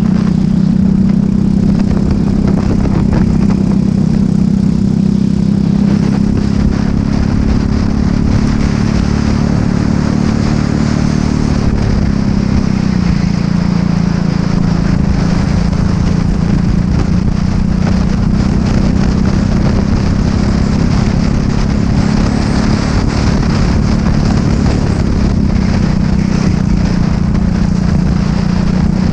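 Racing kart engine running hard under the driver's seat, a steady high note that drops briefly about twelve seconds in and climbs again, with a smaller dip later.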